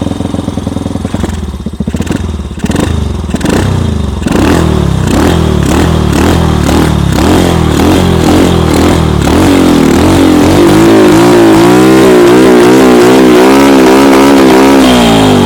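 Small engine of a homemade tracked snowmobile, just started on the button, revved up and down about twice a second, then held at high revs with a wavering pitch before dropping back near the end. Its carburettor is leaking petrol, which the riders put down to debris under the needle valve.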